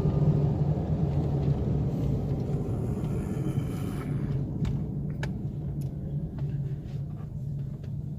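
Chevrolet Optra being driven, a steady low engine and road rumble. It pulls smoothly with no misfire or jerking now that the faulty ignition coil has been replaced. A few light clicks in the second half.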